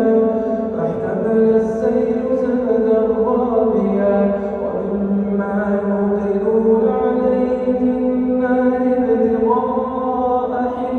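A man reciting the Quran in Arabic in a melodic, chanted style, holding long drawn-out notes that step up and down in pitch.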